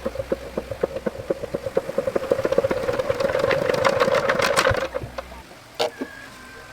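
Tractor engine turning over with a run of knocking strokes that speeds up and grows louder, then cuts out abruptly about five seconds in. It is struggling to start or run, which the mechanic puts down to the engine not pumping fuel.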